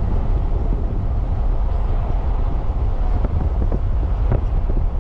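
Wind buffeting the microphone: a steady, heavy low rumble with a few faint ticks.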